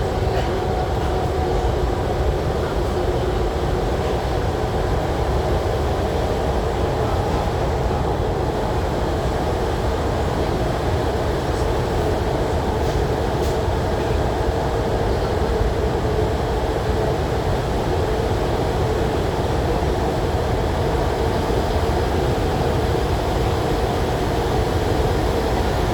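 MTR SP1900 electric multiple-unit train running at a steady speed between stations, heard from inside the carriage. There is a constant rumble of wheels on rail with a steady hum from the drive.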